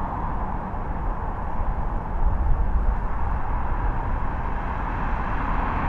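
Jet engine noise of an arriving Boeing 777 airliner, a steady rumble that swells slightly about two seconds in.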